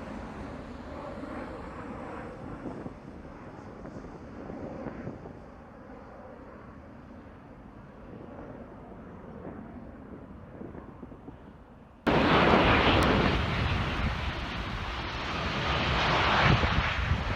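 Jet airliner engine noise mixed with wind buffeting the microphone. About twelve seconds in, the sound cuts abruptly to a much louder rush of jet noise and wind.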